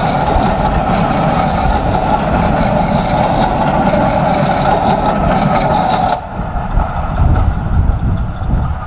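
Passenger coaches of a steam-hauled train rolling past close by, the wheels on the rails making a steady running noise with a faint high whine. It drops away suddenly about six seconds in as the last coach passes, leaving a low rumble.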